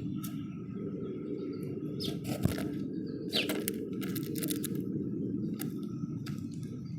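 Small birds at a feeder: a few short falling chirps and scattered quick clicks and rustles over a steady low rumble, with one sharp knock about two and a half seconds in.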